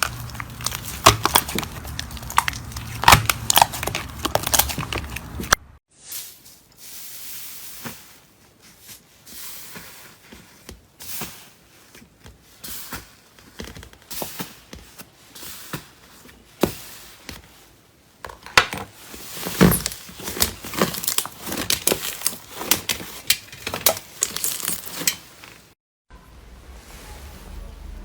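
Slime being squished, stretched and poked by hand, making dense sticky clicks and pops. It comes in three stretches broken by two brief silent gaps, and the middle stretch is quieter with sparser pops.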